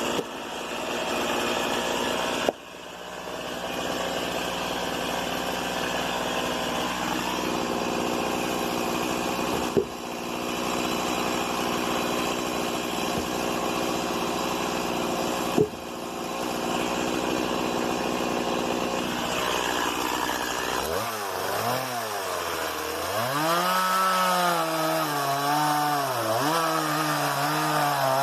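Stihl MS 170 two-stroke chainsaw running at a fairly steady pitch for most of the stretch, with three sharp clicks along the way. In the last several seconds its engine pitch rises and falls repeatedly as it revs and eases off.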